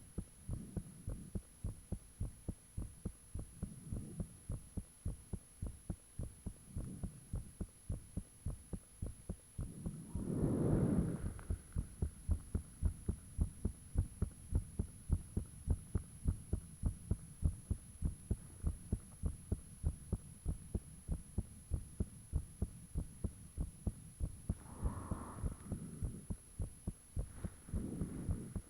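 A human heartbeat picked up close to the body: a steady, regular train of low thumps, a few a second. A louder whooshing swell rises over the beat about ten seconds in, and shorter ones come twice near the end.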